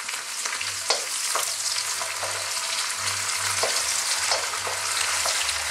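Onions, celery, garlic and ginger sizzling in hot oil in a wok, a steady hiss. A wooden spatula stirs and scrapes through them several times.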